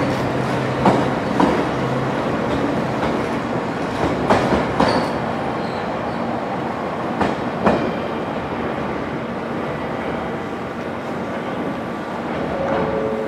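A railway train rolling slowly past, its wheels clacking over rail joints in pairs of clicks about half a second apart, every three seconds or so, over a steady rumble.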